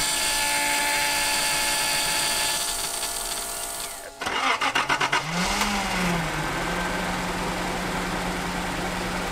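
A steady whine, then a Datsun Z-car's straight-six cranks for about a second, catches, revs up once and settles into a steady idle.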